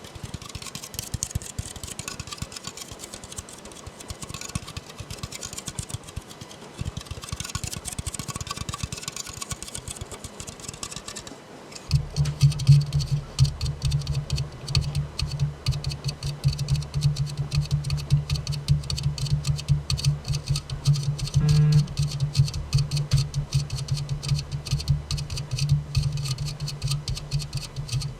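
Rapid, continuous finger tapping on an aluminium soda can. About twelve seconds in, the tapping grows louder and takes on a deeper, hollow body.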